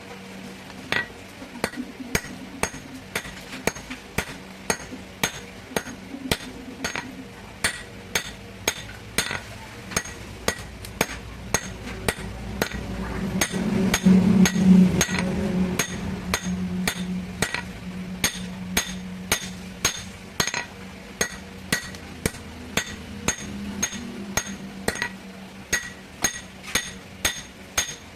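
Blacksmith's hammer striking metal on an anvil in a steady rhythm, about two to three blows a second, each blow with a short ringing note. A low steady hum runs underneath and swells loudest in the middle.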